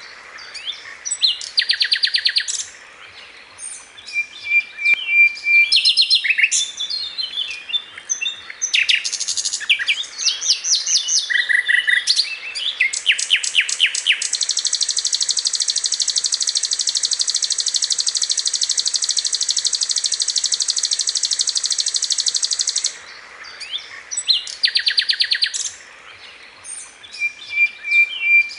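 A sikatan londo singing hard: bursts of rapid, high chattering trills and sharp chirps with short pauses, and in the middle one long unbroken trill lasting about eight seconds. It is a tutor (masteran) song meant for teaching other songbirds.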